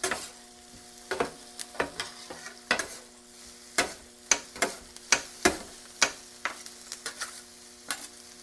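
Bacon and diced onion sizzling in bacon grease on a flat-top griddle, with a metal spatula scraping and clicking on the griddle surface about once or twice a second as they are stirred. A steady low hum runs underneath.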